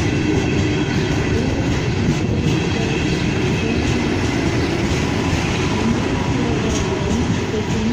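EKR-002 high-speed electric train pulling out of the station, its cars and wheels running steadily along the track close by.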